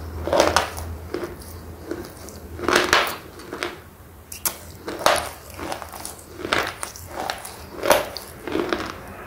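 Slate pencil being chewed, a dry crunch with each bite in an irregular run of about one or two crunches a second.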